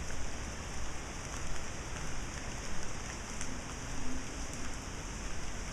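Steady rain falling, with a few single drops ticking close by.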